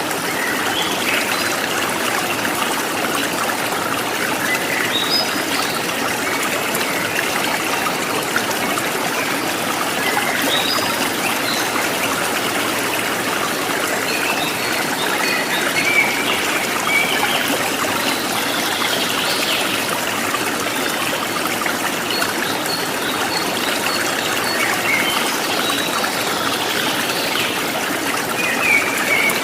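Stream water running and trickling steadily, with scattered short bird chirps over it.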